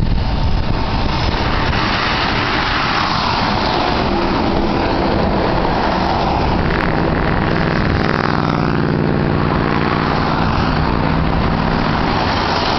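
Car driving, with steady road and wind noise heard from inside the cabin; the engine note rises about eight seconds in as the car speeds up.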